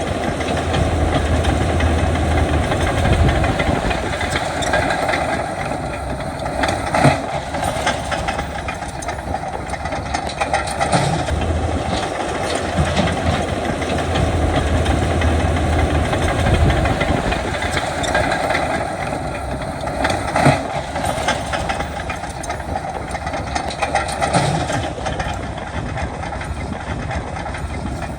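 Heavy diesel earthmoving machinery working, its engine running steadily under load with the low drone swelling and easing, and a couple of sharp metallic clanks about seven and twenty seconds in.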